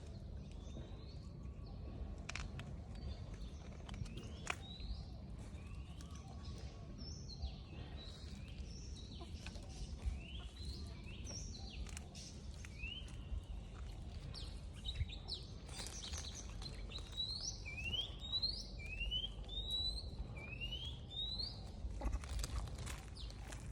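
Many short, high chirping calls, each rising quickly in pitch and repeated about once a second, most densely in the second half. Scattered faint clicks and a steady low rumble lie beneath them.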